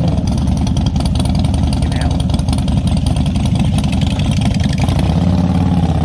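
Motorcycle engine idling with a steady, low exhaust note.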